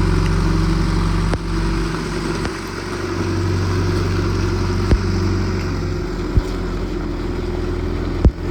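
John Deere 310SG loader backhoe's diesel engine running steadily, its note dipping about a second and a half in and picking back up around three seconds. A few short sharp knocks sound over it.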